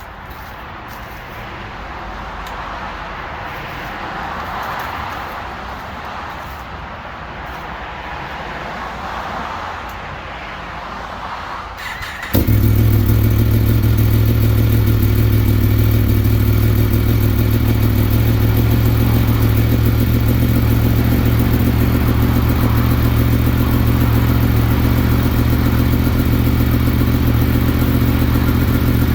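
After about twelve seconds of even background noise, a starter whirs briefly and the 2017 Yamaha FZ-10's crossplane inline-four fires on a cold start. It then settles into a loud, steady idle.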